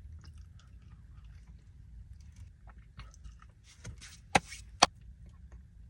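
A person chewing food close to the microphone, with soft mouth noises and two sharp clicks a little over four seconds in.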